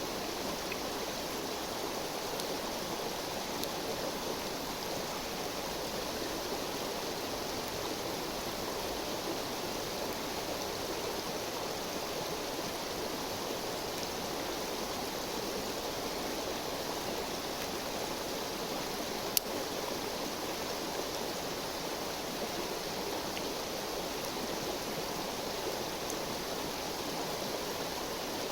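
River water flowing steadily, a constant rushing murmur. A single sharp click sounds about two-thirds of the way through.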